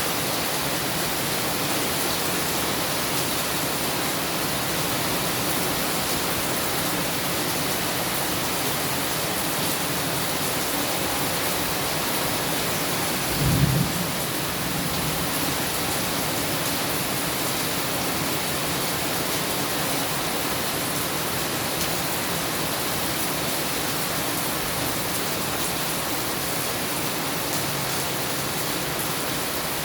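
Steady heavy rain falling, an even hiss. A brief low thump comes a little under halfway through.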